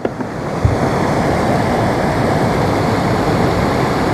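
Steady rushing noise of a nearby waterfall. A brief low thump comes just under a second in.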